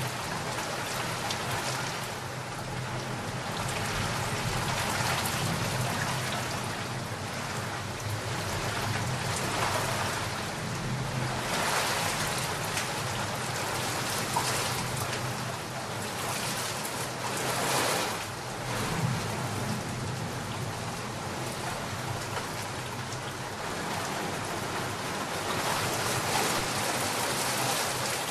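Steady heavy rain falling on surfaces, swelling and easing in gusts, with two stronger swells about 12 and 18 seconds in.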